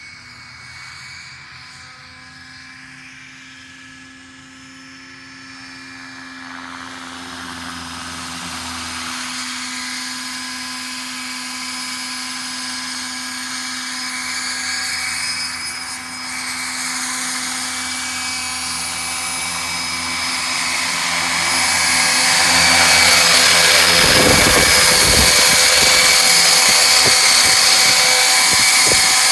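Electric Roban EC135 scale RC helicopter in flight, its rotor head spun up to 1250 RPM, giving a steady whine and hum that grows steadily louder as it comes closer. From about three-quarters of the way in, a loud rushing, buffeting noise joins it: rotor wash or wind on the microphone.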